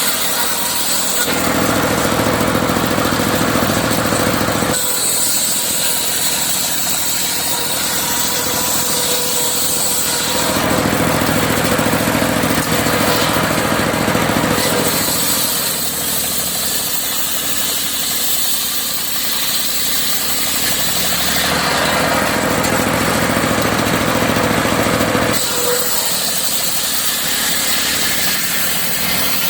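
Serkel circular sawmill running while sawing teak logs: an engine runs steadily under the sound of the saw, which changes character every four to six seconds as the blade goes in and out of the cut.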